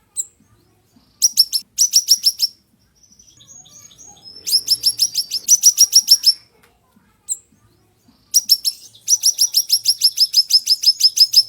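Siri-siri songbird singing in sharp, rapid trills of repeated high notes, each phrase a second or two long with short pauses between, and a single short chirp in two of the gaps; the last trill starts about eight seconds in and runs longer.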